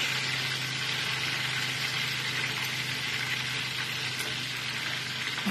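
Chicken frying in hot oil, a steady sizzle, with a steady low hum underneath.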